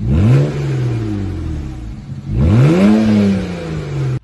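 BMW 335i's N54 twin-turbo straight-six revved twice through its exhaust. Each rev climbs quickly and then falls back slowly, the second one starting about halfway through.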